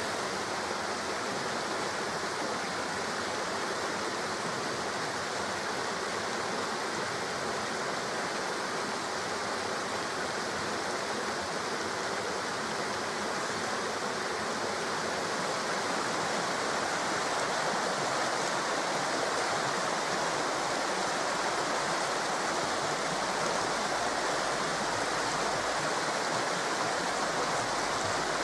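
Steady rushing of flowing water, an even hiss that gets slightly louder about halfway through.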